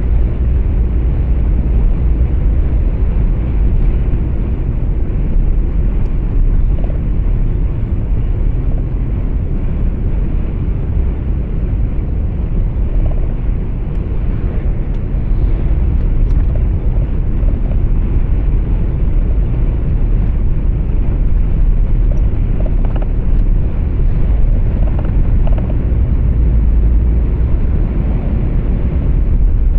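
Steady low rumble of road and engine noise heard inside a truck cab while driving, with no marked changes.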